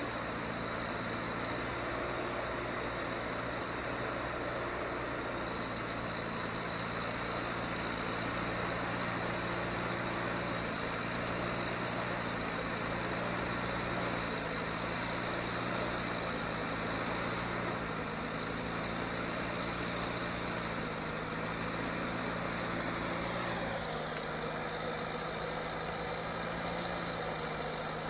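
A heavy vehicle's engine running steadily with a slightly wavering pitch. Its speed drops a little about 24 seconds in.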